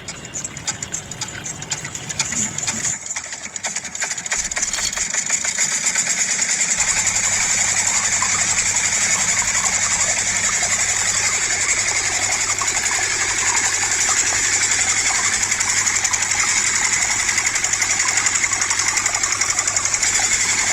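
Small DC hobby motor in a homemade toy running with a steady, fast buzz. It starts about three seconds in and settles to an even level a few seconds later.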